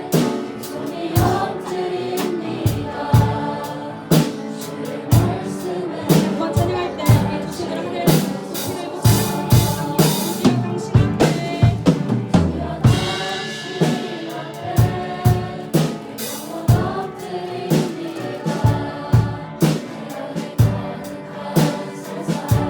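Live worship band playing a praise song: singers over piano, with a drum kit keeping a steady beat of about two hits a second.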